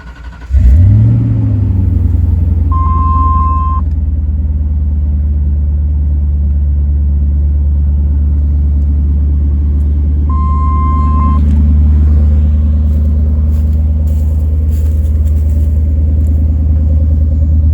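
Two Skar VXF 15-inch subwoofers in a ported trunk box, driven by a Taramps Smart Bass 5K amp, playing a loud, steady low bass tone that settles in pitch just after it starts. Two short high beeps sound over it, about 3 and 10 seconds in.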